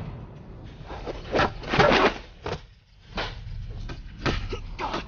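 Wooden fighting staffs swishing through the air and clacking together in a staged staff bout, about six sharp swishes and hits in quick succession.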